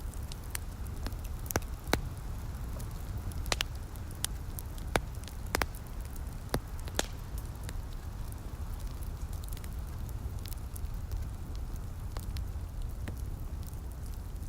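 Wood fire crackling in a fireplace, with sharp pops and snaps that come most often in the first half, over a steady low rumble.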